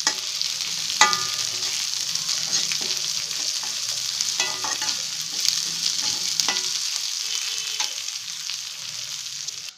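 Chopped onions and split moong dal sizzling in hot oil in an aluminium kadai, stirred with a metal spatula that scrapes the pan and knocks against it several times, each knock ringing briefly. The sizzle stops suddenly near the end.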